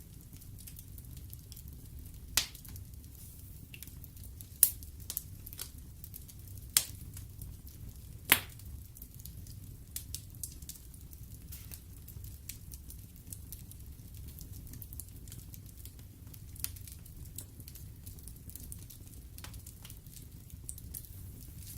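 Wood fire in a fireplace crackling, with sharp pops over a low steady rumble. The loudest pops come every two seconds or so in the first half, then smaller scattered ticks.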